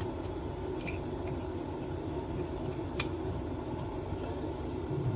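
Steady low background hum with a few faint clicks and one sharp click about three seconds in.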